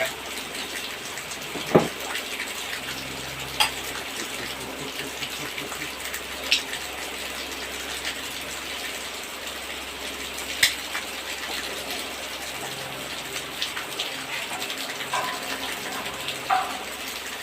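Engine running steadily after a piston replacement, a continuous rushing mechanical noise with a few sharp clicks, about four of them spread out. The owner hears the noise as coming from inside the engine.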